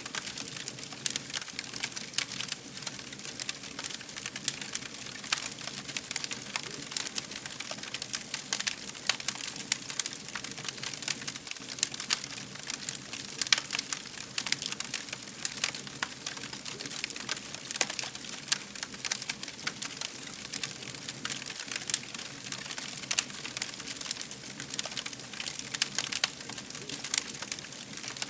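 Fire crackling steadily: a dense, irregular stream of small pops and snaps over a soft hiss.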